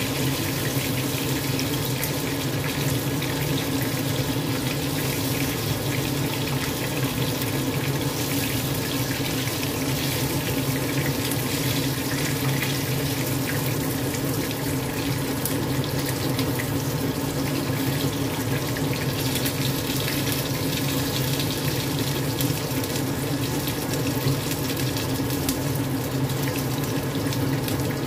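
Boneless chicken thigh pieces coated in cornstarch sizzling and crackling steadily as they shallow-fry in hot oil in a wok.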